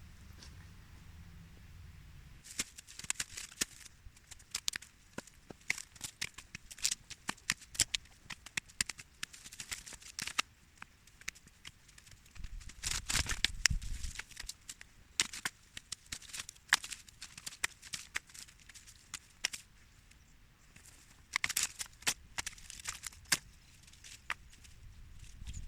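Dry brush, twigs and leaves rustling and crackling as they are handled, with many irregular sharp snaps. A denser, louder burst comes about halfway through, with a low rumble under it.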